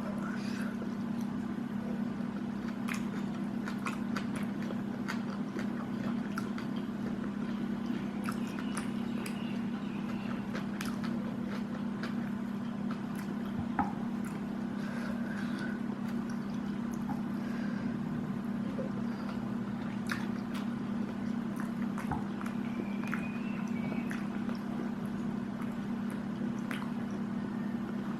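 Close-up chewing and eating sounds, with scattered small clicks and smacks, over a steady low hum. One sharper click comes about halfway through.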